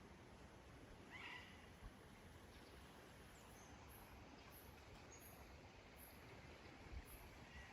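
Near silence: faint outdoor ambience with a short bird chirp about a second in and a few faint, high, repeated chirps in the second half.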